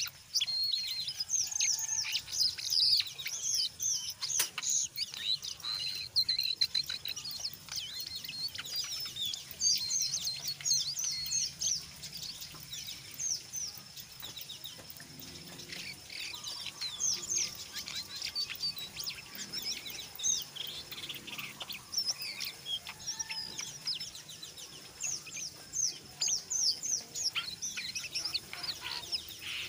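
Jongkangan coklat bird call: a rapid, chattering run of high, quick downward-sweeping notes, mixed with some clearer ones, going on almost without a break and thinning a little in the middle.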